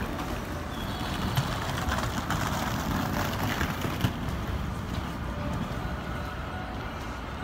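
Electric commuter train pulling into the station platform: a steady rumble of the train running on the rails, with two short sharp knocks about a second and a half and four seconds in.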